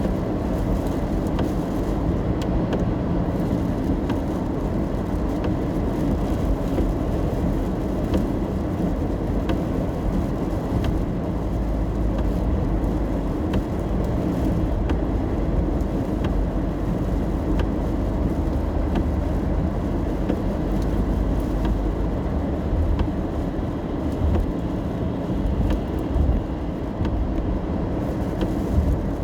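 Road noise inside a car cabin while driving in the rain: a steady low rumble from the tyres and engine, with scattered light ticks over it.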